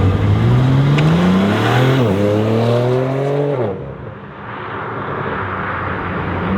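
BMW G82 M4's twin-turbo straight-six accelerating hard through an AWE SwitchPath axle-back exhaust. The pitch climbs, dips briefly about two seconds in as it shifts up, and climbs again. It then drops away suddenly a little past halfway, leaving a quieter rushing noise.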